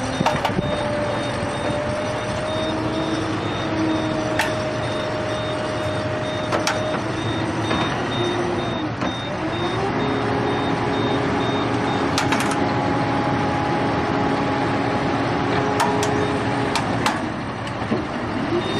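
Heavy vehicle engine running, its pitch shifting up and down as it works, with a regular high-pitched beeping through the first two-thirds and a few sharp knocks.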